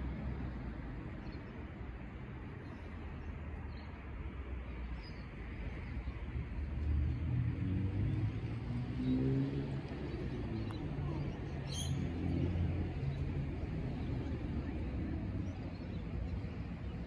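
Low rumble of a Metro X'Trapolis electric suburban train drawing near along the track, growing louder about halfway through, with a few faint bird chirps.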